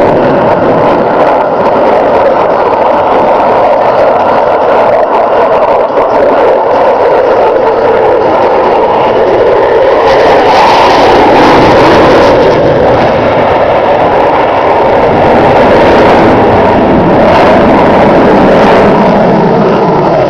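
Jet noise from a Boeing F/A-18F Super Hornet's twin General Electric F414 turbofan engines as the fighter flies a display pass. It is loud and continuous and swells to its loudest about ten to twelve seconds in.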